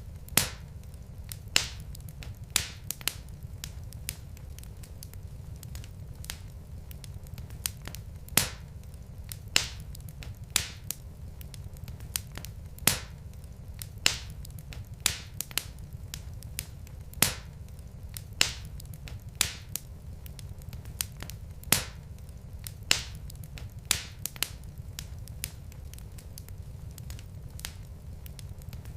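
Wood fire crackling in a fireplace: irregular sharp pops and snaps from burning logs, a few every second or two, over a steady low rumble.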